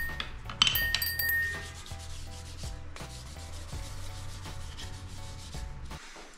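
A paper towel rubbing oil into a wooden slotted spatula and spoons, a dry rustling wipe. A sharp wooden knock sounds about half a second in as a utensil is handled on the wooden cutting board.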